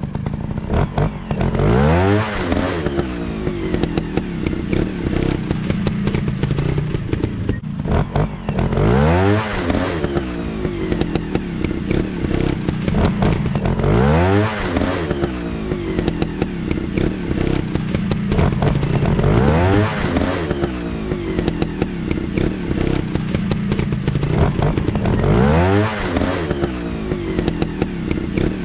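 Motocross bike engines running hard, revving up sharply about five times, roughly every five to six seconds, between stretches of steady engine drone.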